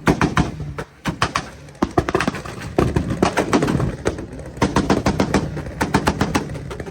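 Car exhaust crackling and popping in rapid, irregular cracks over a low engine rumble, with a short lull about a second in.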